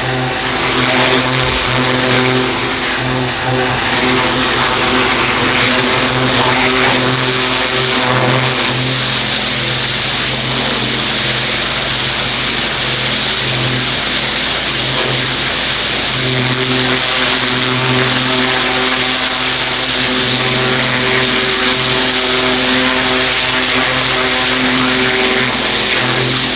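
Pressure washer engine running steadily under load, with the hiss of the high-pressure water jet spraying across paving.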